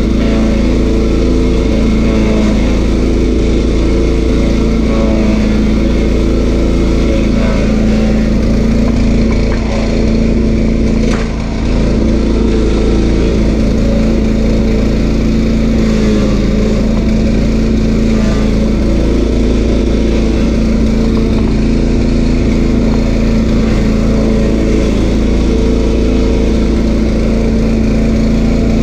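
Stump grinder's 13 HP Honda engine running steadily at working speed, with a brief dip about eleven seconds in.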